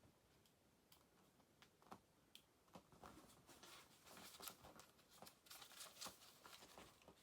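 Near silence: faint scattered clicks and light rustling, busier in the middle.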